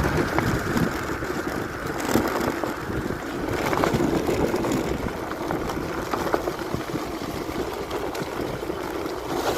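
Riding noise from an off-road electric scooter on a dirt trail: a steady rush of wind and tyre rumble, with scattered knocks and rattles.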